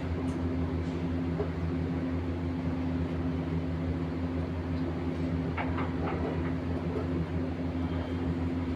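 An engine running steadily with an even low hum, typical of construction machinery.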